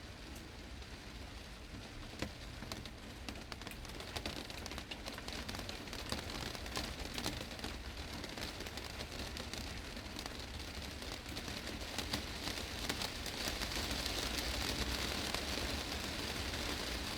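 Heavy rain drumming on a glass greenhouse roof: a dense patter with sharp individual drop strikes, growing heavier over the last few seconds.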